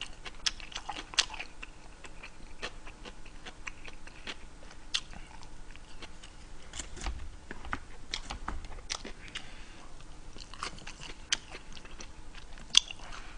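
A person chewing food close to the microphone, with irregular wet clicks and small crunches. There is a sharper click near the end.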